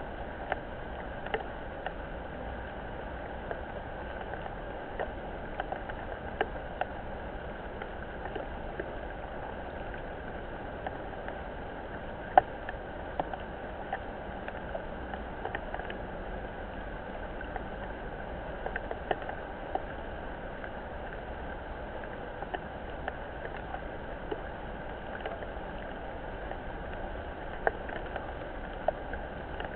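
Rain falling on a pond: a steady hiss dotted with scattered sharp drip ticks, one louder tick about twelve seconds in.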